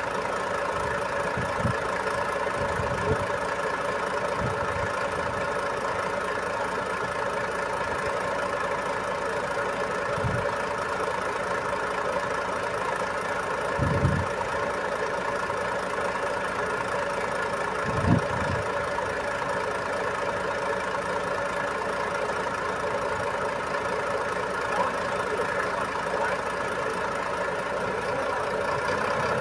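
Truck engine running steadily at idle, with a handful of dull low thumps, the loudest about halfway through and again a few seconds later.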